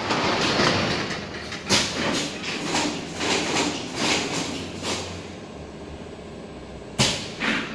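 A 12-station screen-printing machine running with a continuous mechanical clatter. Sharp knocks come about two seconds in and again near the end.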